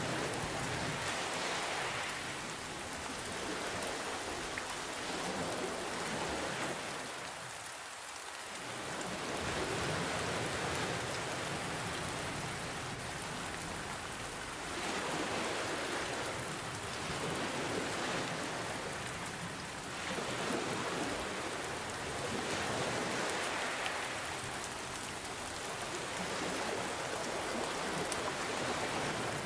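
Steady rain mixed with ocean waves. The hiss swells and eases about every five to six seconds.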